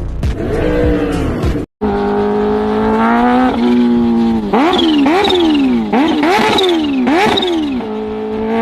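Motorcycle engine running at high revs; its pitch holds steady, then climbs and drops sharply about five times in quick succession before settling again. A brief cut to silence comes just before two seconds in.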